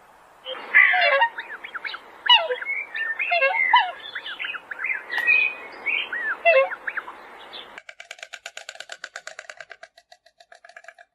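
Birds calling in quick bursts of sweeping chirps and squawks. About eight seconds in, the sound cuts to a rapid, even rattling call of about ten pulses a second that fades away near the end.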